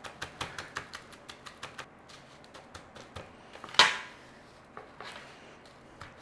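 Crushed crispy fried onions crackling as they are put on and pressed onto mayonnaise-coated chicken breasts: a run of quick, light crackles. One sharp knock comes a little under four seconds in.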